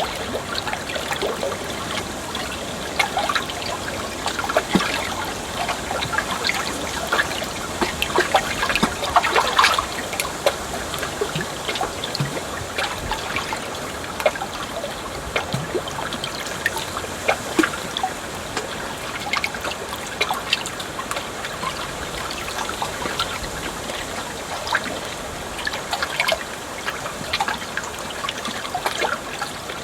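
Flowing water trickling and splashing steadily, with many small gurgles and drips.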